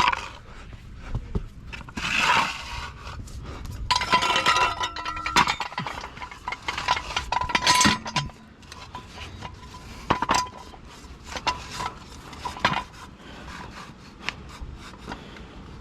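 Metal clinks, knocks and scrapes of a floor jack and jack stands being set and adjusted under a car, with a burst of scraping about two seconds in and a longer stretch between about four and eight seconds.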